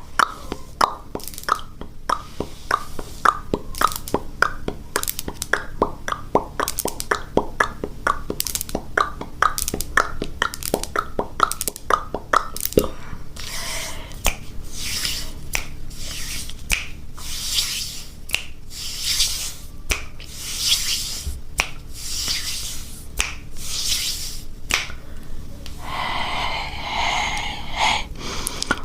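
Mouth sounds: a rapid run of mouth clicks, about three or four a second, for the first twelve seconds or so, then slower, hissier wet smacks about once a second.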